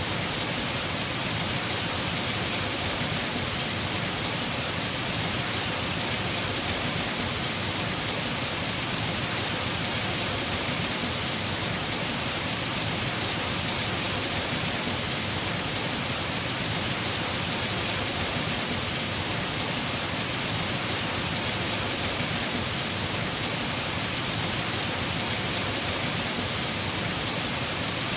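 Heavy rain falling steadily on a house roof, an even unbroken hiss.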